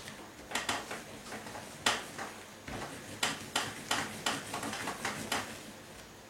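A dozen or so light, sharp clicks and taps of kitchen items being handled, coming irregularly over about five seconds.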